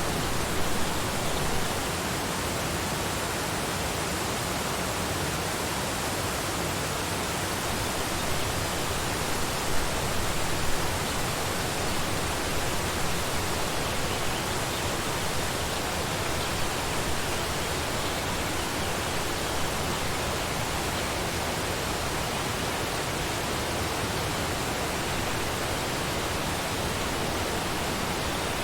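Waterfall rushing steadily, an even wash of falling water with a few slight surges in level.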